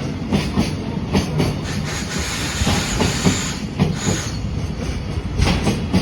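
Freight train of container wagons rolling past at speed, its wheels knocking over the rail joints in quick irregular clacks over a steady rumble, with a higher hiss of wheel on rail about two seconds in.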